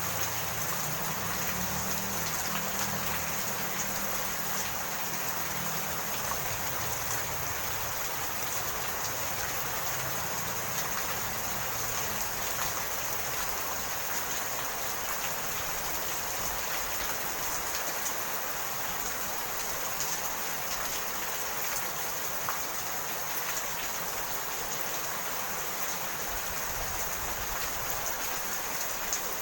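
Rain falling steadily: an even hiss of many drops with scattered sharper ticks. A low rumble fades out over the first few seconds.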